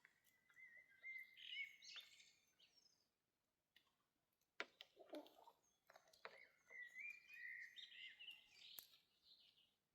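A bird singing faintly in two warbling, whistled phrases about four seconds apart. A single sharp click comes between them, near the middle.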